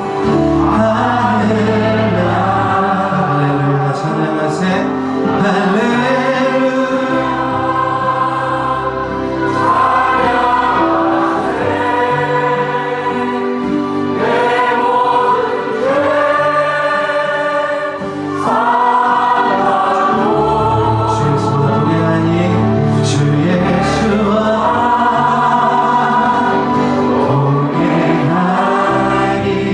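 Group of voices singing a slow Christian worship song together, with sustained instrumental accompaniment underneath.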